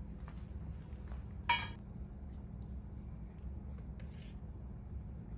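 A utensil clinks once against kitchenware about a second and a half in, with a short ringing tone, and a few fainter taps follow, over a steady low hum.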